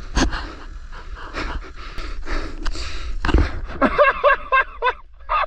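A person breathing hard with noisy gasps, then a quick run of four or five short voiced grunts or pants near the end, over a steady low rumble.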